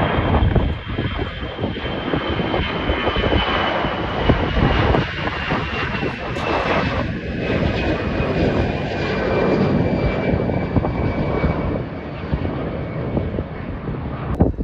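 Jet airliner's engines running loud as the aircraft passes, with a high whine that slides slowly down in pitch over the engine noise.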